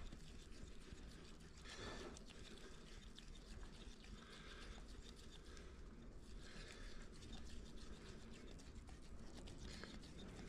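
Faint, soft scraping of a putty knife working builder's paste wood filler into holes, in a few separate strokes a couple of seconds apart.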